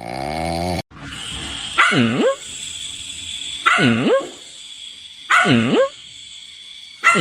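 A dog giving four short barking calls, each swooping down in pitch and back up, one about every one and a half to two seconds.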